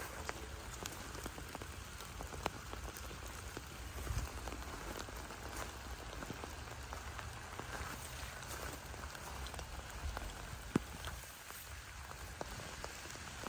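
Rain falling steadily, with many single drops ticking close by. One sharper drop hits about eleven seconds in.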